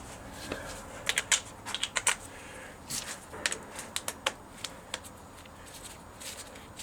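Irregular light clicks and sharp metallic taps of hand tools and sockets being handled, several in quick succession about a second in and again around three to four seconds in.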